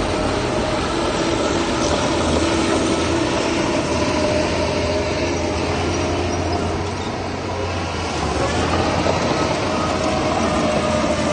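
Heavy diesel earth-moving machinery running under load: a steady low engine drone with a held whining tone above it.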